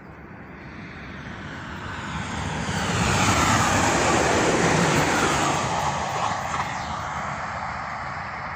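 A train passing by: a rushing noise that builds to its loudest about three to five seconds in, then slowly fades, with a faint whine falling in pitch as it goes past.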